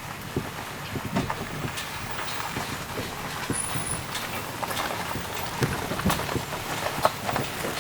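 A vehicle's engine running steadily while driving, with frequent light rattles and knocks throughout.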